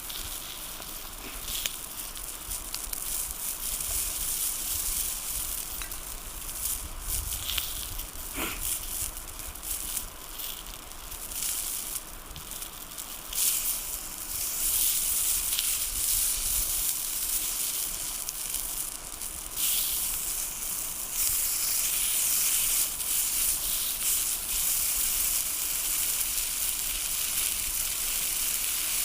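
Food sizzling in a pan over a campfire, with scattered crackles; the sizzle grows louder partway through and again later on.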